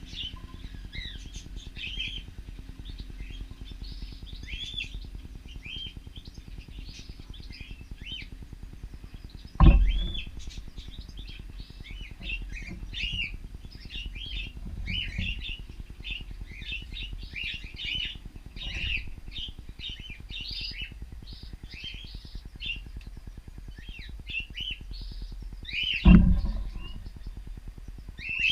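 Cockatiels chirping and calling in a steady stream of short, rising and falling notes. Two loud thumps cut in, one about ten seconds in and one near the end.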